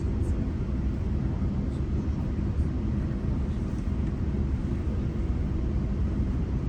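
GO Transit commuter train running along the track, heard from on board as a steady low rumble.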